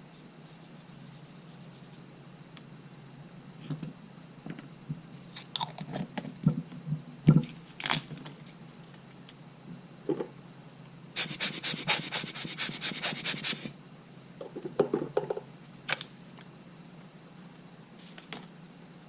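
Small clicks and scrapes of hand work on a camera body, with a run of rapid rubbing strokes lasting about two and a half seconds in the middle.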